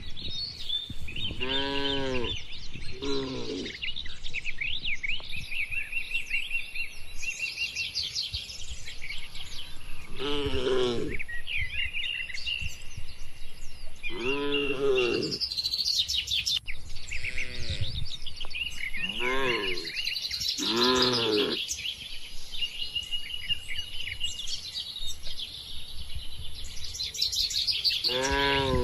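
Birds chirping and singing without a break, joined by about seven short cattle moos, each under a second, that rise and fall in pitch.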